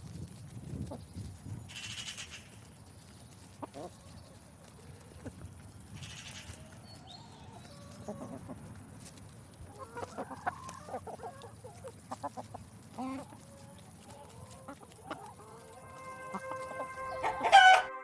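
Chicken clucking in short, scattered calls, busiest about ten seconds in, with a faint steady high whine behind them and a loud burst near the end. Soft ambient music starts near the end.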